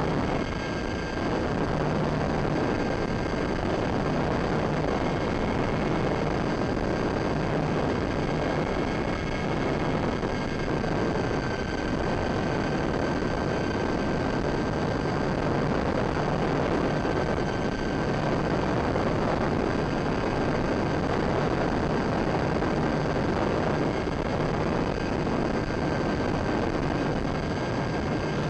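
Electric motors and propellers of a Durafly Tundra VTOL radio-controlled plane running steadily with a thin high whine, under heavy wind rush on the microphone.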